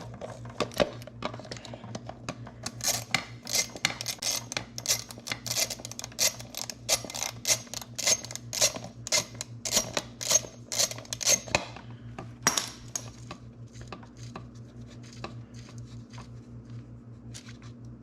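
Metal clinking and clicking of hand tools and loose parts being handled during engine work, a run of sharp ringing clicks about two to three a second, then a few scattered ones after about twelve seconds.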